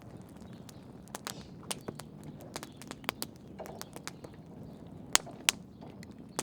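Fire crackling: sharp, irregular pops over a low steady rush, two louder pops about five seconds in.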